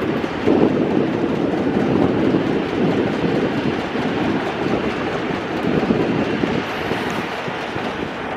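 Natural gas engine at a coal bed methane well, running steadily on the well's own gas with a continuous clattering mechanical sound.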